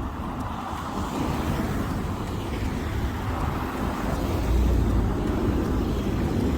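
Low, steady rumble of a motor vehicle, swelling about four seconds in.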